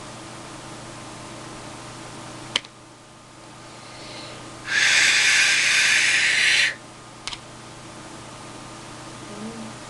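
Breath blown through a handmade clay duck whistle for about two seconds, giving only a loud airy hiss with no clear note: the whistle is not sounding properly. A sharp click comes a couple of seconds before the blow.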